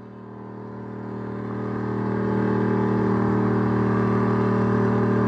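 Car engine held at steady high revs, growing louder over the first two seconds and then holding steady.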